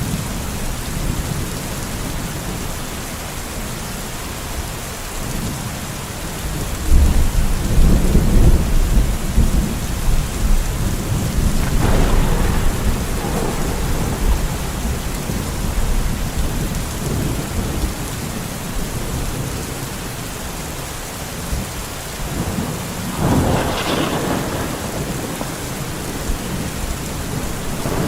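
Steady rain with thunder: a deep rumble swells about seven seconds in and slowly fades, and a shorter, sharper peal comes near the end.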